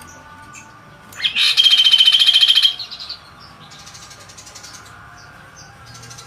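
Kaso-kaso bird singing: a loud, fast rattling trill with a steady high note runs for about a second and a half, starting about a second in. A quieter trill follows about a second later.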